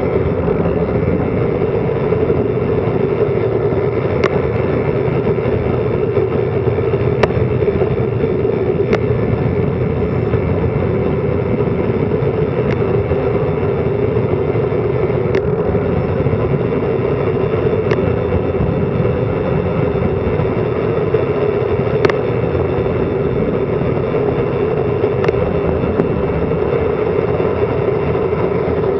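Steady rush of wind and road noise on an action camera's microphone during a fast bicycle descent, with a few sharp ticks from bumps in the road.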